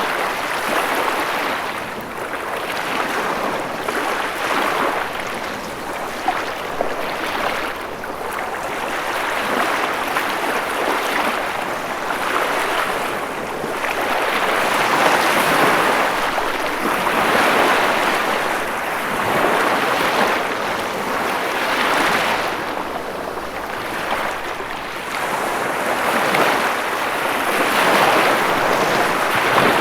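Ocean waves breaking and washing on the shore, a continuous rushing surf that swells and eases every few seconds.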